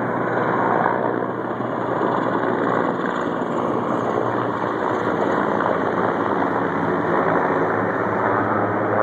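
Firefighting helicopter flying in close, its rotor and turbine engine making a steady loud drone.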